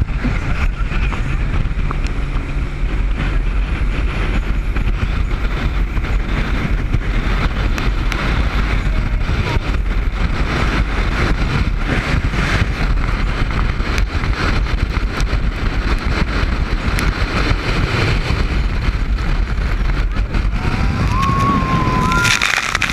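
Speedboat running at speed: steady engine noise mixed with water rush and wind buffeting the microphone.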